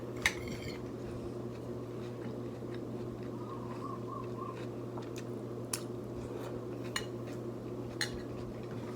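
Cutlery clinking against a dish about five times as pasta is eaten, the loudest clink right at the start, over a steady low hum.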